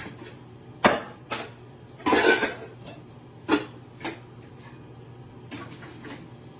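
Cookware clattering at the stove: a metal pan and utensils knocking and clinking in a string of sharp knocks, with a quick cluster about two seconds in and fainter taps near the end, over a steady low hum.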